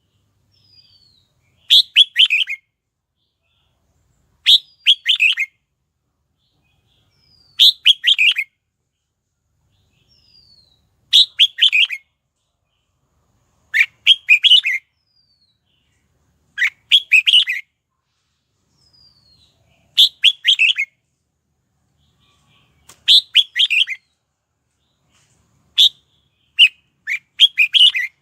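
Red-whiskered bulbul singing: short, bright warbled phrases repeated about every three seconds, with faint short falling notes between them. The phrases come closer together near the end.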